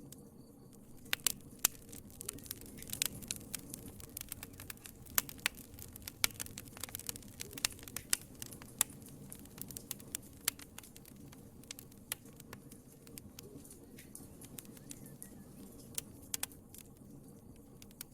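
Wood fire in a fireplace crackling: many sharp pops and snaps, irregular and dense, over a low steady rush of the flames. The pops thin out briefly at the very start and again near the end.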